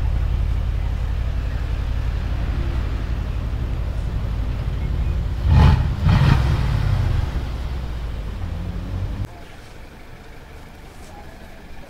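Brabus-tuned Mercedes-Benz G550 4x4²'s 4.0-litre twin-turbo V8 running with a steady low rumble, blipped twice in quick succession about halfway through. The level drops sharply about nine seconds in.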